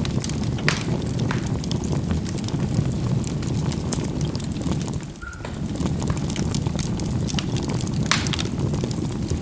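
Charcoal burning in a fireplace: a steady low rushing sound of the fire, with frequent sharp crackles and pops as the coals snap. The burning sound dips briefly about halfway through.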